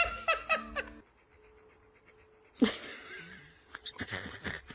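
A dog panting in quick, short breaths in the second half. It follows a few short pitched sounds in the first second, a brief hush, and a sudden sound about two and a half seconds in.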